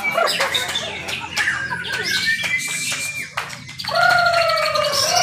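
Several caged songbirds singing and chirping over one another, with quick chirps, clicks and whistled phrases. About four seconds in, a loud, long falling whistle.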